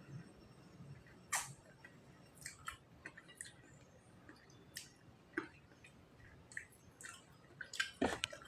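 Faint eating sounds: scattered wet mouth clicks and smacks of a person chewing food, with a sharper click about a second in and a louder cluster near the end.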